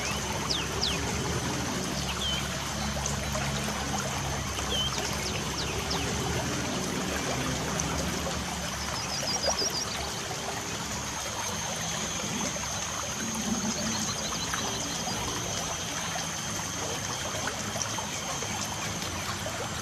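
Light rain with steady trickling, running water. Birds chirp above it now and then, with two quick trills near the middle.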